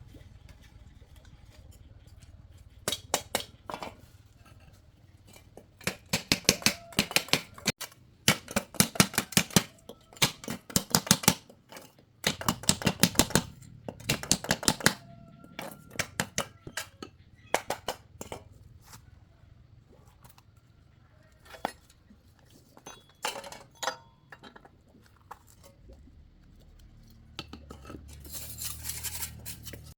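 Hand tools working on metal machine parts: bursts of rapid metallic clicking and clinking, each a few seconds long, with scattered single clicks between them.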